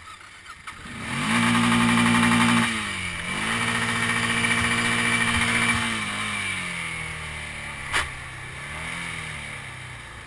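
Quad bike engine revved hard and held for a second or two, briefly easing off, then revved and held again before dropping back toward a low, sagging idle. There is a single sharp tap near the end.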